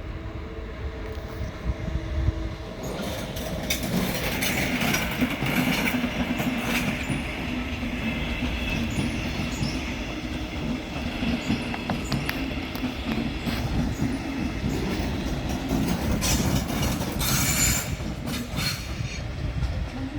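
A train rolls along a station track with a steady low drone and rail rumble. High-pitched wheel squeal comes in patches, strongest about 16 to 18 seconds in.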